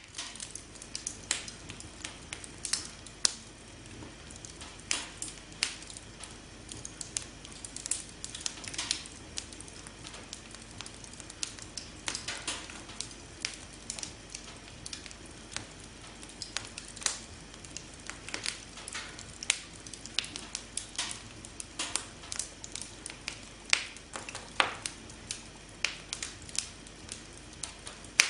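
Campfire crackling: irregular sharp pops and snaps, several a second, over a steady low hiss.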